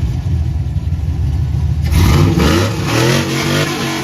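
A vehicle engine running loud with a deep rumble, then revving about halfway through, its pitch rising and falling.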